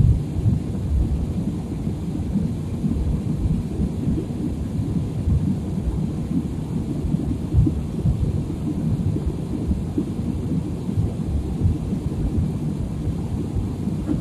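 Airliner cabin noise: a steady low rumble of jet engines and airflow, with small uneven surges.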